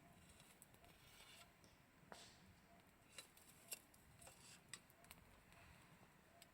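Faint wood campfire crackling: a few sharp, isolated pops and snaps a second or so apart.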